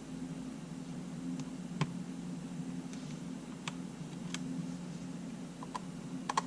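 A few small, sharp clicks and ticks from handling small tools, screws and camera parts during camera repair, spaced irregularly, with a tight double click near the end, over a steady low hum.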